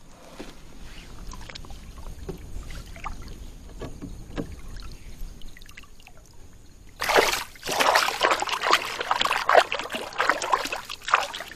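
Light knocks for several seconds, then water splashing and sloshing hard right beside a kayak for about four seconds.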